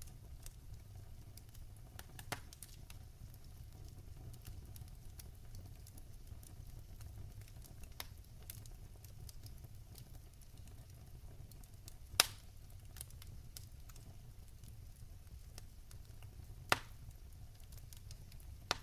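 Wood fire crackling in a fireplace: a steady low rumble of burning with a scatter of small ticks and a few sharp pops, the loudest about twelve seconds in and another a few seconds before the end.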